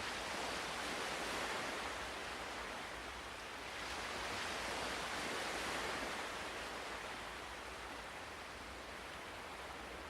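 Ocean waves breaking and washing on a shore, two swells of surf about four seconds apart, the second easing off.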